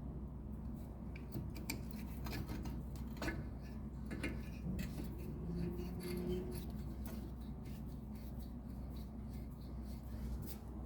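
Scattered light metallic clicks and clinks of hand tools and brake caliper parts being handled as the greased guide pins and caliper are refitted, over a steady low hum.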